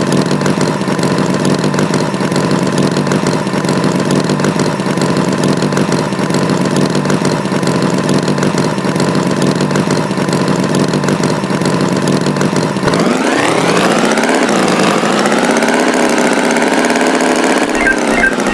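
Tractor engine idling steadily, then revving up and down in pitch from about 13 seconds in.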